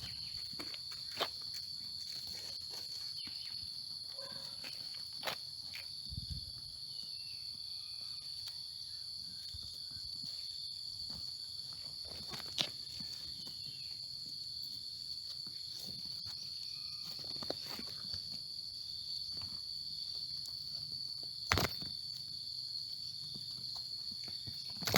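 Billy goats clashing heads and horns: a handful of sharp cracks, spaced several seconds apart, over a steady high insect drone.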